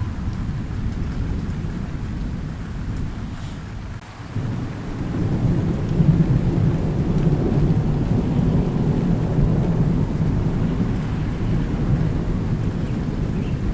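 Rolling thunder rumbling over steady rain. The rumble dies down briefly about four seconds in, then builds again into a long, louder roll.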